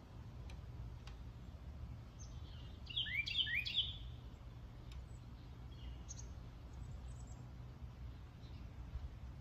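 A loud bird of unknown species calling: a quick burst of several sharp, sweeping notes about three seconds in, then a few fainter calls a few seconds later, over a steady low rumble.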